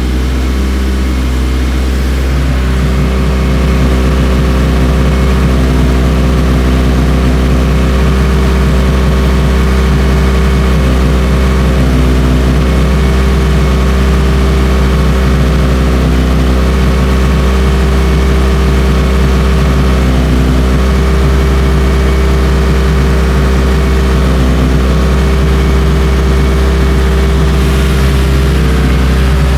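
Car engine idling steadily at a slightly raised idle, a constant low drone that grows a little louder over the first few seconds, holding without surging.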